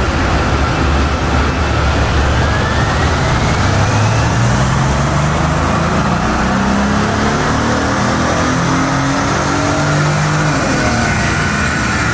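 Mercedes-Benz SL's engine at full throttle on a chassis dyno during a fourth-gear power pull, the revs climbing steadily and falling away near the end.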